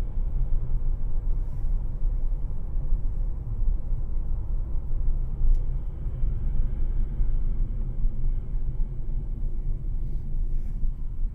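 Low, steady rumble of a vehicle driving, engine and road noise as picked up by a dash cam.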